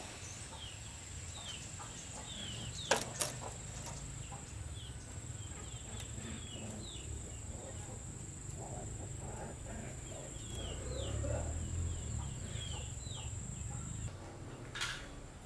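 Birds chirping in many short, falling calls over a steady high-pitched whine and a low rumble, with two sharp clicks about three seconds in; the whine stops near the end.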